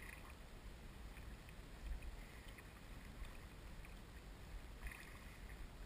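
Faint water lapping against a kayak hull, over a steady low rumble with a few light clicks.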